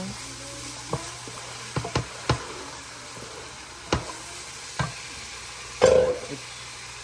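Catfish pieces frying in masala in a pot, sizzling steadily while being stirred, with spoon clicks against the pot a few times and a louder clatter about six seconds in.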